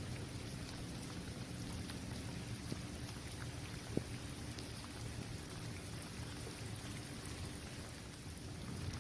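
Steady rain falling on a basketball court, individual drops ticking over a constant hiss. One sharper single tick about four seconds in.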